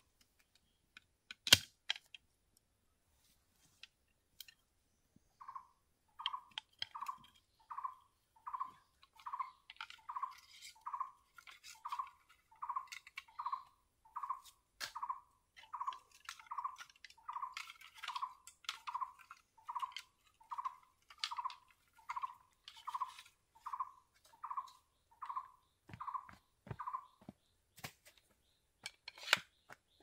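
A bird repeating one short hooting note about twice a second, starting about five seconds in and stopping a few seconds before the end. A sharp click about a second and a half in, and scattered light clicks and a few dull knocks, come from handwork with bamboo and a machete.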